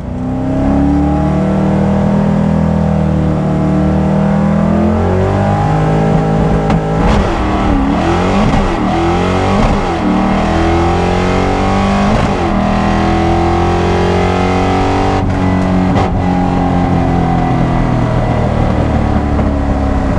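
Loud drag-race car engines, starting about half a second in. Through the middle, several engine pitches rise and fall across each other as they rev.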